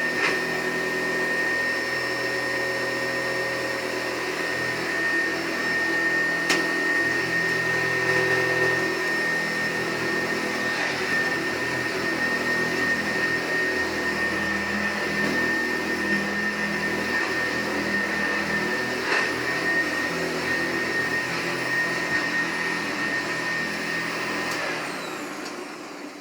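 A 1996 Hoover Powerplus upright vacuum cleaner running steadily with a high motor whine. Near the end it is switched off and runs down.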